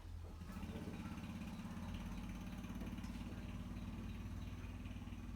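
A small engine running steadily at an even speed, its low pulsing hum coming up about half a second in.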